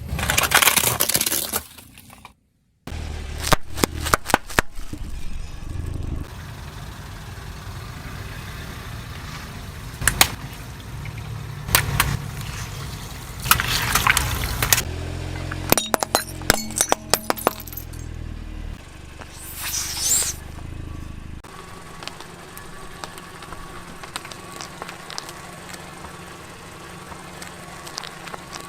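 Car tyres rolling over and crushing objects: a series of sharp cracks, snaps and crunches, with a few short noisy bursts, over the low hum of the car's engine. The sound changes abruptly several times, with a brief dropout about two and a half seconds in.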